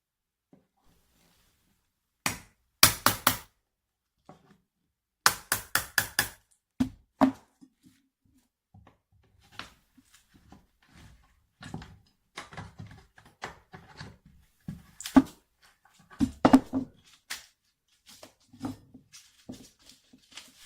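A series of sharp knocks: a short quick run about three seconds in, a faster run of about seven strikes around five to six seconds in, then scattered lighter knocks and taps with pauses between.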